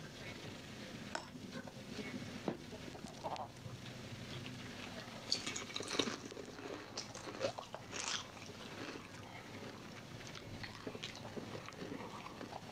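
A person chewing food, with scattered short clicks and rustles as hands pick food out of a clear plastic container.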